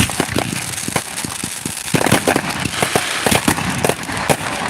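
Fireworks going off in rapid succession: a dense, irregular run of sharp bangs and crackles, several a second.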